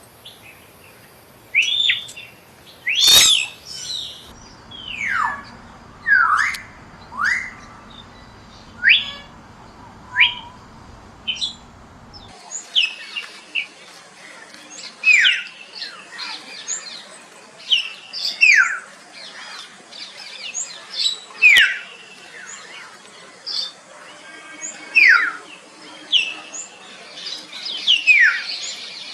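Common hill myna calling: a series of short, loud whistles, most sliding down in pitch, about one a second. There is a sharper, harsher call about three seconds in.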